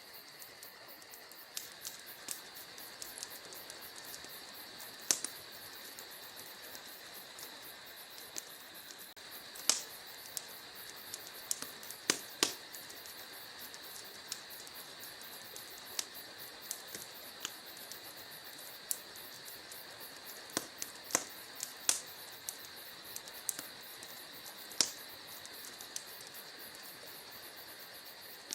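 Wood fire crackling: irregular sharp pops and snaps, a few much louder ones about ten and twelve seconds in, over a steady high hiss.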